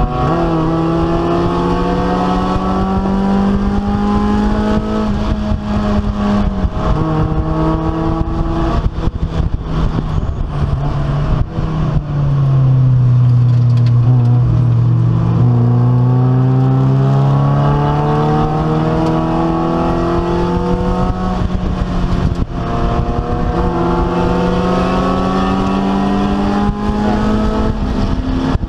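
Race car engine heard from inside the stripped cabin under hard driving. The engine note climbs and steps down at upshifts, falls to a low, heavy pitch as the car slows for a corner about halfway through, then climbs through the gears again, with another shift near the end.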